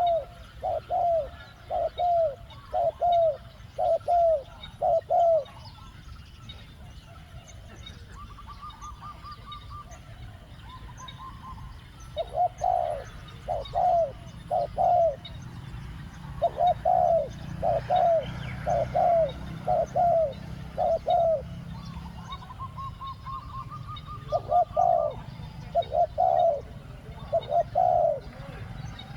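Spotted dove cooing in repeated series of short, rounded coos, about two a second, broken by pauses. A brief, fast, higher-pitched trill comes twice, during the pauses.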